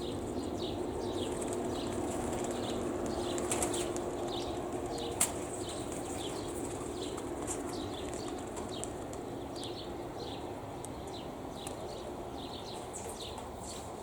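Pigeons' wings flapping as the flock is driven out to fly, over steady wind noise. High, short, falling chirps repeat a few times a second throughout, and there is a single sharp click about five seconds in.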